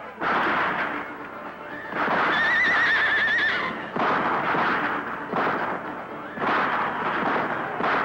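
A horse whinnying, a wavering call of about a second and a half that begins about two seconds in. It comes amid four loud, noisy surges of commotion.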